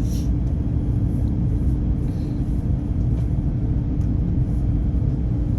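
Airliner cabin noise during the climb after takeoff: a steady low rumble of engines and airflow with a constant hum.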